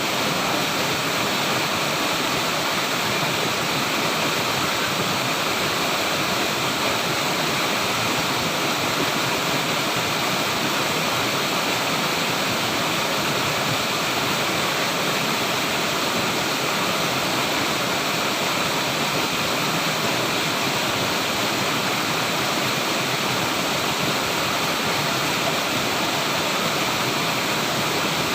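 Flowing water rushing steadily, like a stream or small waterfall, with no change in level.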